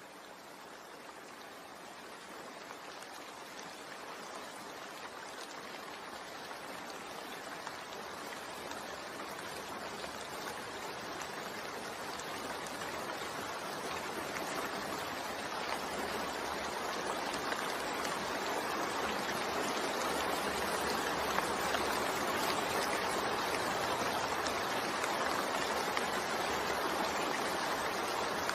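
Steady rain falling, a dense, even hiss of rainfall that grows gradually louder through the first two-thirds and then holds.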